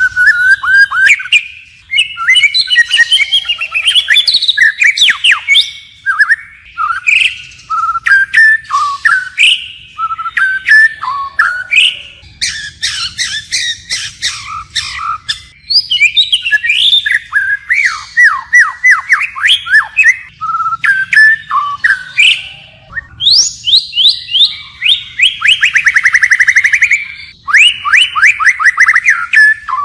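White-rumped shama singing a rich, continuous song of clear whistled phrases, switching to a new phrase again and again, mixed with sharp clicks and fast trills. A long, fast rattling trill comes about three quarters of the way through.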